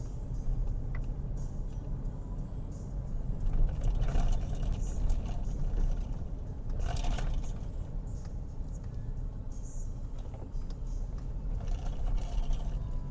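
Car driving, heard from inside the cabin: a steady low rumble of engine and tyres, with a few short rattles about four and seven seconds in.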